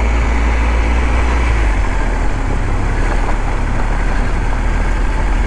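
Motorcycle engine running steadily while riding a dirt road, under a steady rush of wind and road noise; the low engine note changes about a second and a half in.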